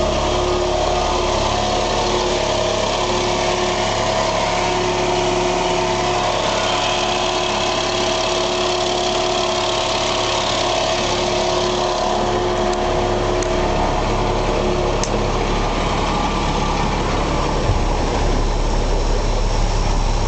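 Tender truck's Caterpillar diesel engine running steadily, with a steady whine from the auger drive on top. The whine fades out about two-thirds of the way through, and after a thump near the end the low engine rumble grows stronger.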